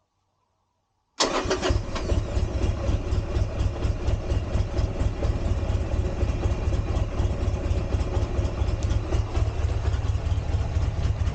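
Buell Firebolt XB12R's air-cooled V-twin engine running at idle with a fast, uneven pulsing beat, coming in abruptly about a second in after silence.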